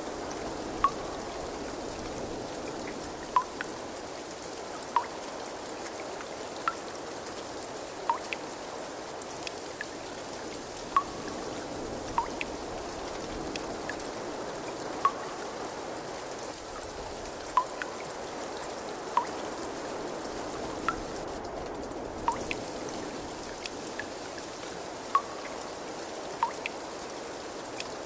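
Steady rush of running water with single water drops plinking into water every second or two, each a short, clear pitched drip that stands out above the flow.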